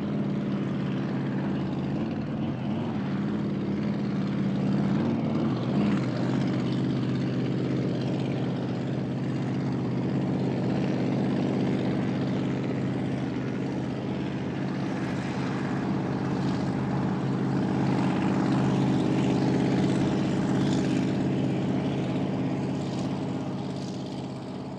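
An engine running steadily, its drone holding one pitch for a long stretch, then fading out near the end.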